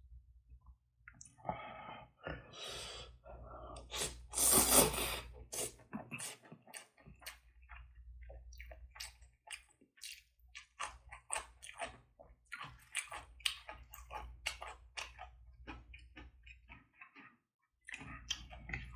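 Close-miked eating sounds: wet chewing and frequent mouth smacks and clicks, with a louder, noisier stretch about four to five seconds in.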